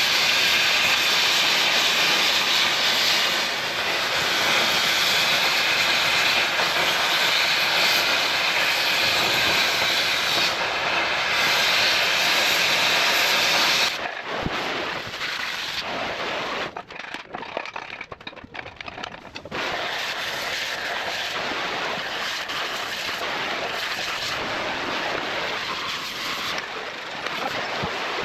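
Oxy-fuel cutting torch hissing steadily as it burns through steel. About halfway through the hiss drops to a lower, uneven level with crackling.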